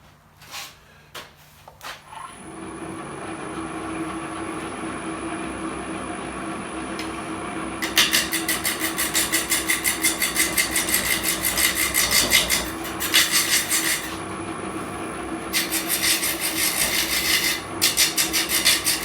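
Wood lathe motor starting and humming steadily, then a square-tip tungsten carbide tool cutting a spinning segmented hardwood vase blank: a loud rapid rhythmic rasping chatter as the tool knocks down the uneven segment ring edges, in three stretches with short pauses.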